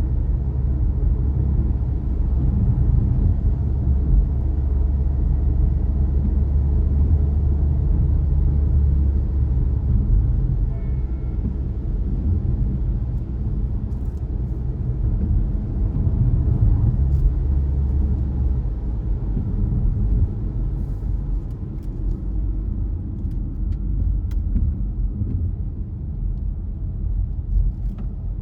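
A car driving along a road, with a steady low rumble of engine and tyres that eases a little in the second half. A few faint clicks come in later on.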